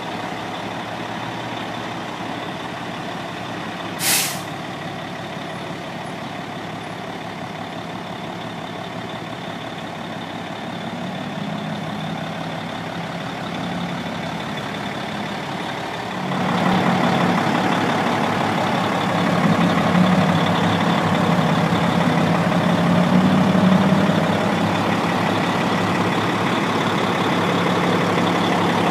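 Cat diesel engine of a 1996 Ford B750 day cab truck running steadily. A short sharp hiss of air from the air brake system about four seconds in. A bit past halfway the engine note rises and runs louder.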